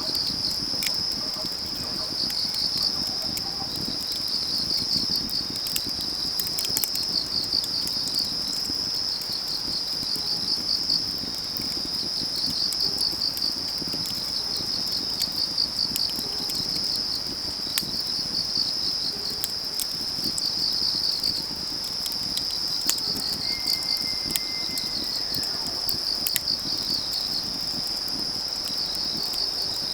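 Autumn field crickets chirping in a steady, high-pitched, pulsing trill over a crackling wood fire with scattered sharp pops. Near the end a faint, high, whistle-like call sounds once for about two seconds.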